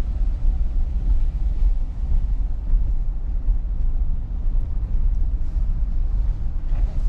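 Pickup truck driving slowly, a steady low rumble of engine and road noise heard from inside the cab.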